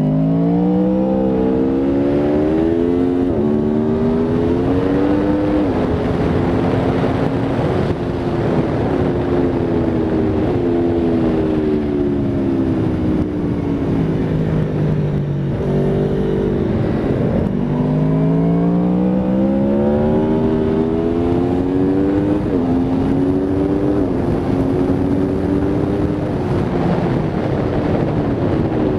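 Aprilia Tuono V4 RR's V4 engine under hard acceleration on track. Its pitch climbs through the gears with a quick drop at each upshift, falls through a long slowdown with engine braking, then climbs through the gears again.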